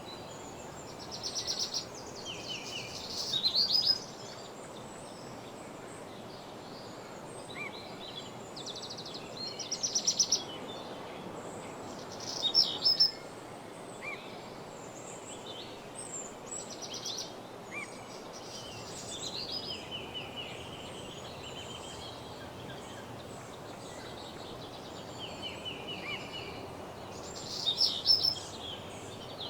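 Woodland songbirds singing: short trilled and chirping song phrases that come and go, with louder bursts of song about a second in, around ten to thirteen seconds in and near the end, over a steady background hiss.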